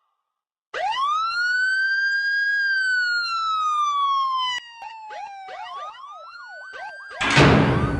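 Police siren sound effect: one long wail that rises quickly and then falls slowly, followed by fainter, quicker up-and-down sweeps. About seven seconds in, a loud burst of noise cuts in over it.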